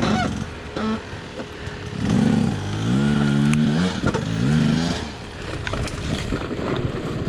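Enduro motorcycle engine running at low revs, blipped up a few times about two to five seconds in, with some scraping and clattering of the bike.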